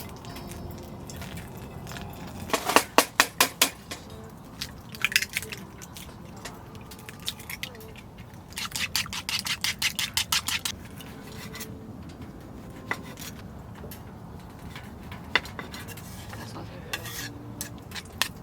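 A utensil clinking rapidly against a bowl while mixing food, in two bouts of quick, even strokes, about seven a second: one a few seconds in and a longer one near the middle, with a few single clinks between.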